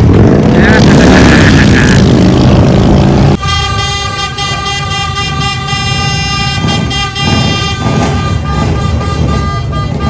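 Indian motorcycle's V-twin engine running loudly with wavering revs for about three seconds, then cut off suddenly. It gives way to a steady held tone with many overtones, horn-like or a sustained music chord, to the end.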